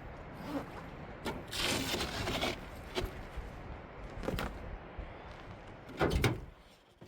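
Wind rumbling on the microphone, with scattered knocks, clatters and rustling of camping gear being handled. The loudest clatter comes about six seconds in.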